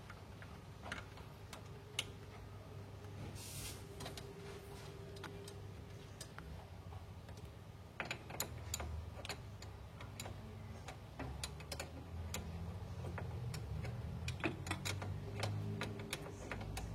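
Scattered light clicks and taps of steering rack parts and tools being handled during reassembly, over a low steady hum, with more clicks in the second half.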